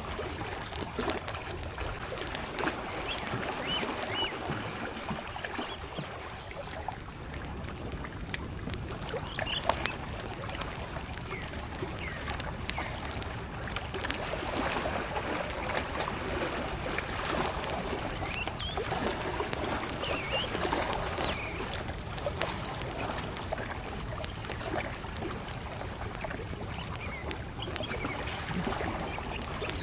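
Small lake waves lapping steadily against the shore, with a wood campfire crackling and popping throughout. A few short bird chirps come now and then.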